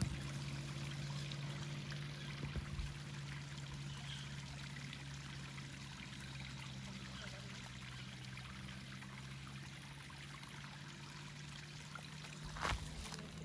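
Steady rush of running water, with a low steady hum underneath and a couple of short knocks near the end.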